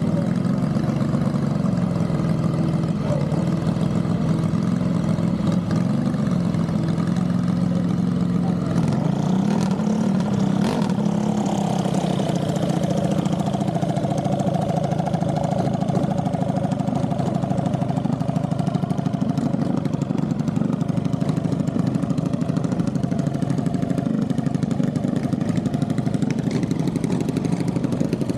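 An engine running steadily near idle, its pitch wavering a little, with a brief rise in speed about ten seconds in.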